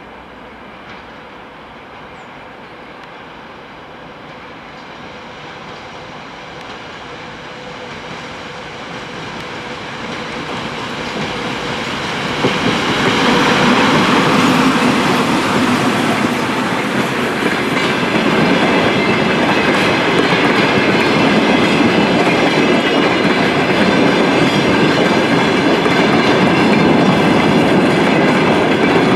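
ChME3 diesel shunting locomotive approaching and passing, growing steadily louder for about twelve seconds until it goes by. A long string of towed, unpowered DR1A diesel-train cars then rolls past with an even rumble of wheels on the rails.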